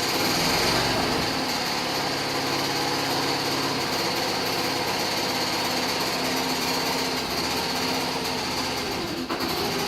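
Honda Super Cub's single-cylinder four-stroke engine running steadily with an abnormal mechanical noise, which the owner puts down to seizure inside the engine.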